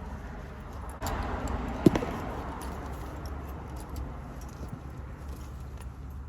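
Belts being handled on a metal ring, buckles clinking and leather rustling, with one sharp clink a little under two seconds in.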